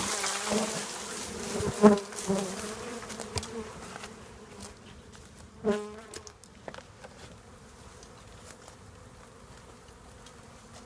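Honeybee swarm buzzing just after being shaken from its branch, the overall hum fading over the first few seconds. Single bees fly close past, with loud passing buzzes about 2 seconds in and again near 6 seconds.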